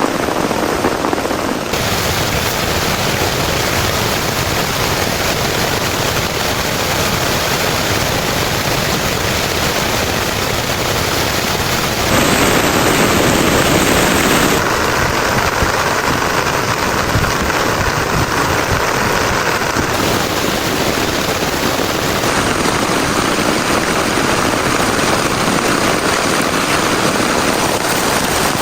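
Heavy rain falling, a loud, steady, dense hiss whose tone changes abruptly several times.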